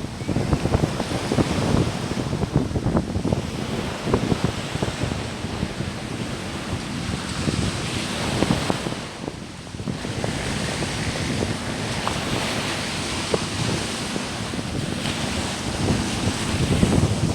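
Sea waves breaking and washing up on the shore, swelling and easing every few seconds, with wind buffeting the microphone.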